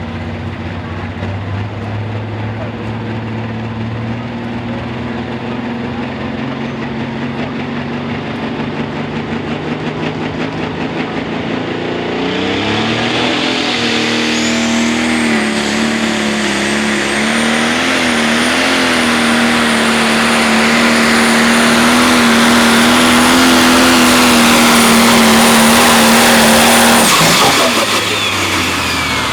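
Turbocharged diesel engine of a pro stock pulling tractor. It runs low at first, then about twelve seconds in revs up to a high, steady pitch under full load as it pulls the sled, with a high turbo whistle climbing and holding above it. About twenty-seven seconds in the throttle shuts and the engine drops away suddenly.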